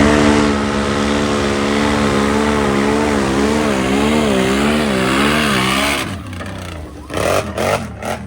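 Mud-racing ATV engine revved up and held near wide open for a pass across a mud hole. Its pitch wobbles up and down from about three seconds in, then it drops off about two seconds before the end, followed by a few short knocks.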